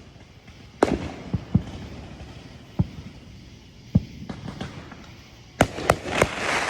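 Fireworks going off: separate sharp bangs at uneven intervals, then three in quick succession near the end, followed by a loud crackling hiss.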